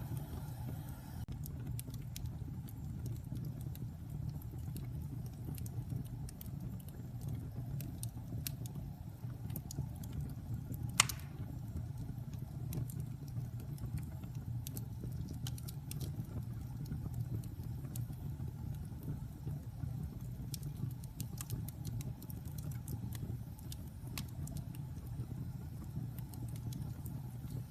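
Wood fire burning in a fireplace: a steady low rumble of flame with scattered small crackles and one sharp pop about eleven seconds in.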